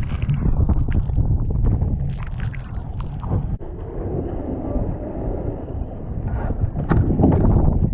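Strong wind buffeting the microphone aboard a Laser sailing dinghy, with water splashing and rushing against the hull in short slaps.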